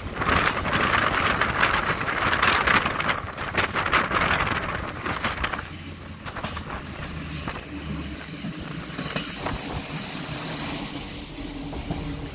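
Wind rushing over the microphone held out of the open window of a moving ÖBB 5047 diesel railcar, over the train's running noise. About six seconds in, the wind noise drops, leaving a steadier, quieter rumble of the railcar running on the rails.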